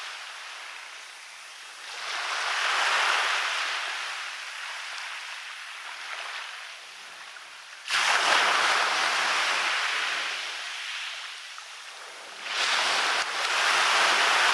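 Waves breaking and washing up a beach, in three surges: a gentle swell about 2 seconds in, a sharper break about 8 seconds in, and another sudden break near the end.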